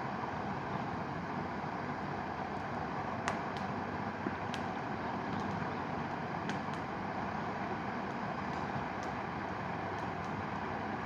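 Mountain river rushing steadily, with a scatter of sharp crackles and pops from a wood bonfire, the loudest about three seconds in.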